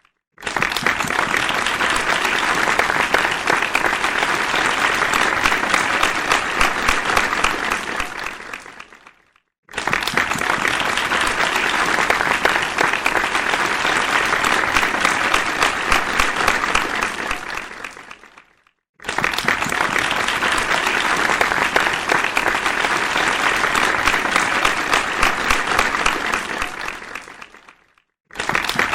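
Audience applause, a dense clapping of many hands, in three rounds of about nine seconds each. Each round starts abruptly and fades out, with a brief silence before the next.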